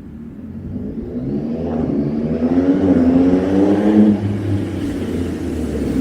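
2023 Yamaha MT-09's 890 cc inline-three breathing through an aftermarket full exhaust system, getting louder as it accelerates and climbs in pitch. The note drops back about four seconds in, then starts climbing again near the end.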